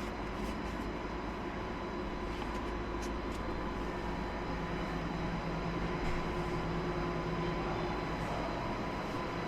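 Steady mechanical hum and hiss of factory background machinery or ventilation, with a few constant tones and some faint ticks.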